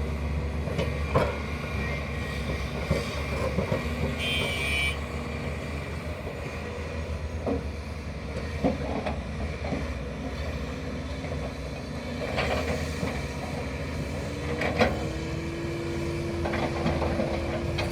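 Heavy diesel machinery of an excavator loading dump trucks running steadily, with scattered clunks and knocks. A short high-pitched beep comes about four seconds in, and an engine note rises slightly and then holds near the end.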